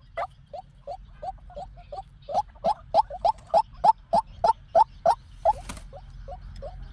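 White-breasted waterhen calling: a rapid series of short, upward-sliding notes, about three a second, some loud and some faint, with a brief hiss a little past the middle.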